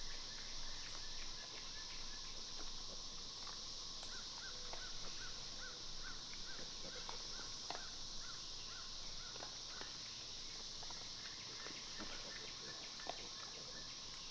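Outdoor ambience: a steady high drone, with a bird calling a quick series of short notes, about two a second, for several seconds in the middle, and a few faint clicks.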